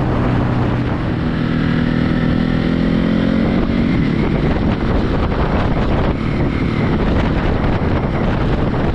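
Ducati Hypermotard motorcycle engine running while being ridden, its note rising a little about a second in and then holding steady, with wind on the microphone.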